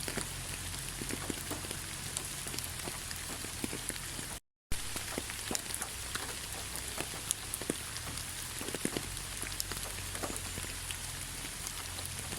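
Steady rain, with many separate raindrops ticking sharply on surfaces over a continuous patter. The sound cuts out completely for a split second about four and a half seconds in.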